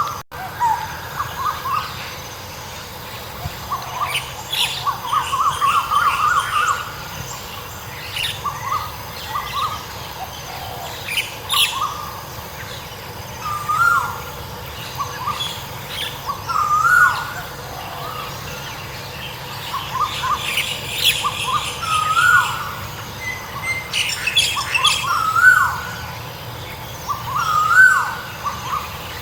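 Several birds calling: one keeps repeating a short call, up and down in pitch, every second or two, while others add higher, quicker chirps.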